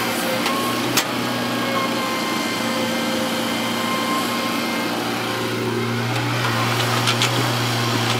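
Heavy diesel earthmoving machine engine running steadily, a low even hum, with a sharp knock about a second in and a couple more near the end.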